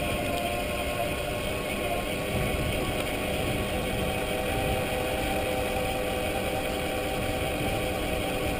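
Electric mountain bike's motor whining steadily under way, its pitch shifting slightly about two seconds in, over a low rumble of tyres on the trail and wind.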